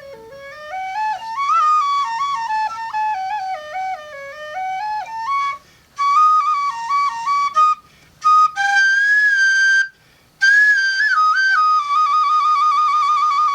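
Solo flute playing a wandering melody that slides and steps down and up, breaking off briefly three times past the middle, then settling on higher held notes with a fast wavering trill near the end.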